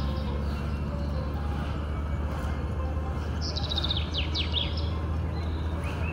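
Birdsong: a quick high trill followed by several fast downward whistles, about halfway through, with a few short chirps near the end, over a steady low hum.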